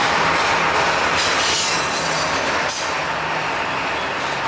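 Double-stack intermodal container train rolling past: a steady noise of steel wheels on rail with a faint, steady high tone over it.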